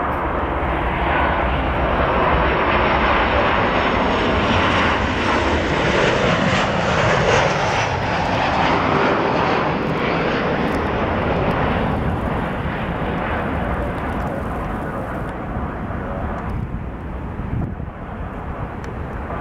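Jet roar of a Boeing 737-900ER's twin CFM56 turbofans as the airliner passes on its landing approach: the roar builds to a peak in the first half, with a thin high whine falling in pitch, then slowly fades.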